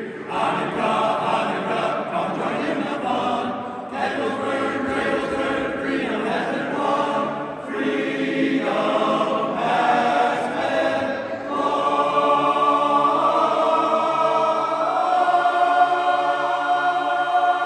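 Barbershop chorus singing a Hanukkah song a cappella in close harmony. It closes on a long held chord over the last few seconds.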